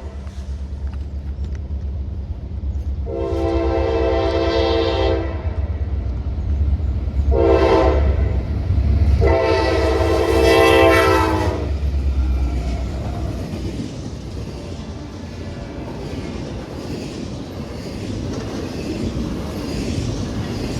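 Norfolk Southern diesel locomotives sounding their multi-chime air horn for the Center Street grade crossing: a long blast, a short one, then another long one, over the heavy rumble of the engines. After the horn the rumble fades as the intermodal cars roll by on the rails.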